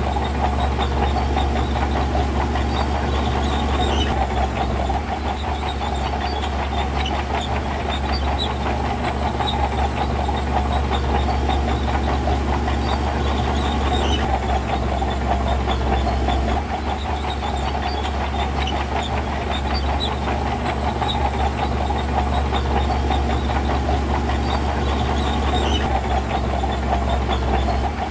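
Diesel earthmoving machinery running steadily under load, with a continuous low engine hum and a constant clatter.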